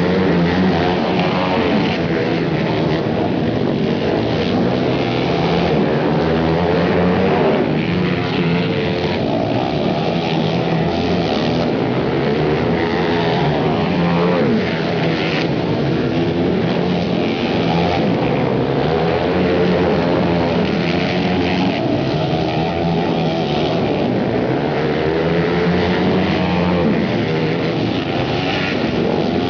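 A pack of flat-track racing motorcycles running hard together, with several engines revving and their pitch rising and falling over one another.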